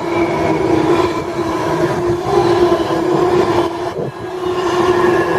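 Class 390 Pendolino electric train running through the station without stopping: a loud, steady sound of several held tones over rushing noise, dipping briefly about four seconds in.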